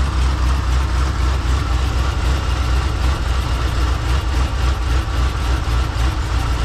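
Chevrolet Silverado's 5.3 LS V8 idling steadily just after a cold start, having sat unstarted for a long time.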